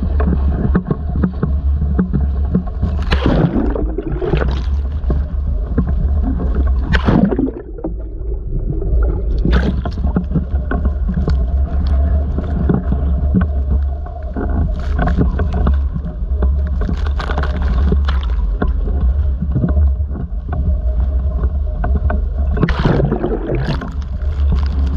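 Strong steady wind of 40+ mph buffeting the microphone in a heavy low rumble, with louder rushes of wind and water every few seconds as the roughly 6-foot waves break and surge.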